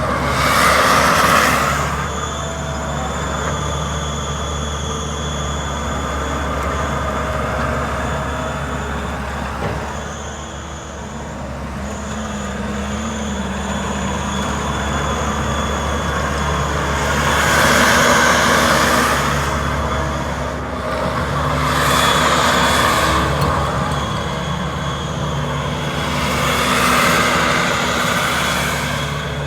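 Mustang MTL25 skid steer's diesel engine running steadily, with four louder swells of a second or two each as the machine works: one about a second in and three in the second half.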